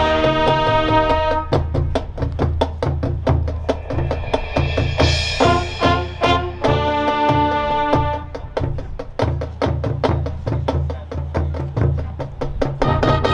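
A high school marching band playing: brass and wind chords over a driving rhythm from the drumline and low bass notes, with a cymbal-like crash about five seconds in.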